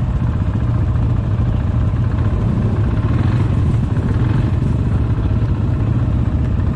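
ATV engine running steadily while riding, a constant low rumble with no pauses.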